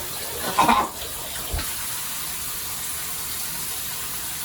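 Shower spray running in a steady hiss, with a brief loud sound about half a second in and a small knock about a second later.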